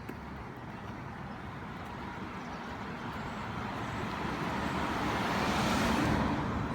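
A motor vehicle passing on a town street, its tyre and engine noise growing louder for a few seconds and peaking near the end before falling away.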